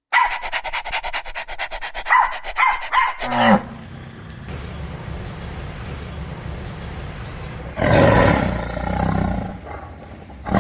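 An animal's vocal sounds: a rapid run of short pulses for about three seconds ending in a falling sound, then louder drawn-out calls near the end.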